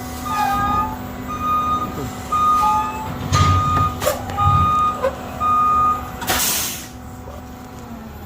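Vehicle reversing alarm beeping about once a second, over a steady low hum, with a short hiss of released air about six seconds in.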